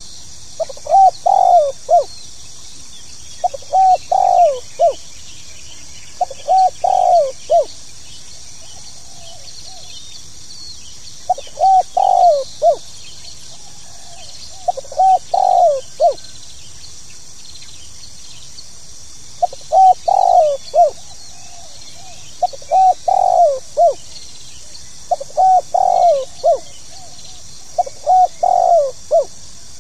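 Spotted dove (tekukur) cooing: a song of short phrases of three to five coos, about nine phrases repeated roughly every three seconds with a couple of longer pauses. It is the calling song that keepers play to lure doves. A steady high hiss runs beneath it.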